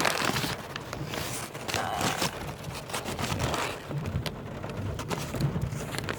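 Storm rain noise with many scattered clicks and scrapes: rain beating down and rustling close to a phone microphone.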